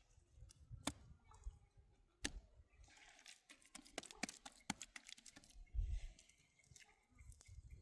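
Faint scattered clicks and knocks at irregular intervals, with a brief low rumble about six seconds in.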